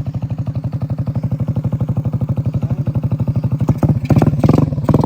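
Small motorbike engine, freshly swapped into a moped, idling with a fast even putter, then revved in a few short louder blips near the end.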